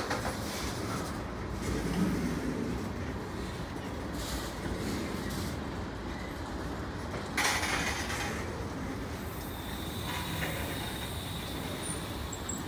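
Freight train's tank cars rolling past: a steady rumble of steel wheels on rail, with a brief louder clatter about seven seconds in and a faint high whine near the end.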